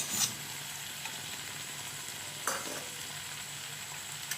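Chicken filling with onion and capsicum sizzling as it fries in a pan and is stirred. Two sharp knocks sound over it, one just after the start and another about halfway through.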